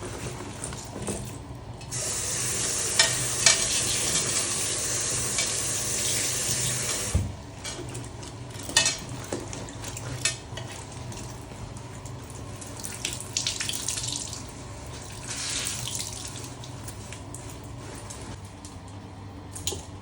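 Water running from a tap for about five seconds, with a few small clicks of handling, followed later by two shorter bursts of hiss.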